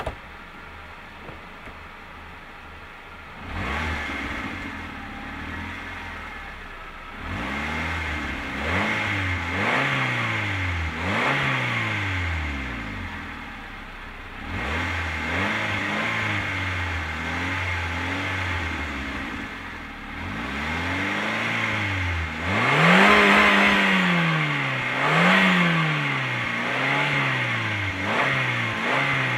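Car engine idling, then revved again and again from about three and a half seconds in, each rev climbing and falling back. From about 22 seconds in the revs go higher and louder in quicker blips.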